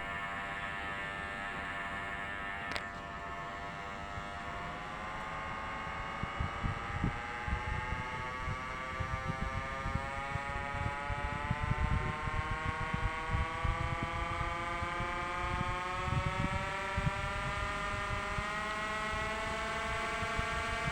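Small electric hobby motor driving a propeller, running with a steady whine that climbs slowly in pitch as it speeds up. There is a click about three seconds in, and from about six seconds in irregular low rumbling comes over it.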